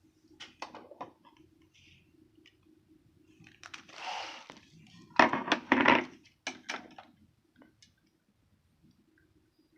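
Tableware being handled on a hospital meal tray: scattered clicks and knocks of dishes, lids and utensils, a short scraping rustle about four seconds in, and a cluster of louder knocks between five and six seconds in.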